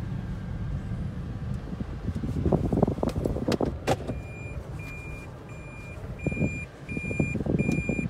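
Cabin of a 2010 Toyota Prius: a low droning road rumble with two louder spells of rough rumbling, then from about halfway the car's high-pitched reverse warning beep repeating steadily. The drone is one the owner suspects comes from the tires, though a bad wheel bearing is also suspected.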